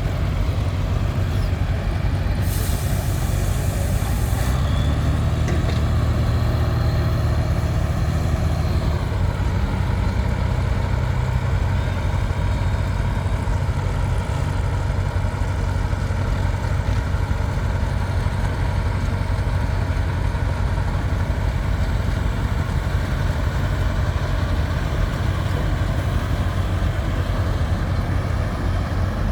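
Tractor-pulling tractor's engine running loud and steady, its pitch lifting slightly a few seconds in and then holding, with a sharp hiss of air lasting about two seconds near the start.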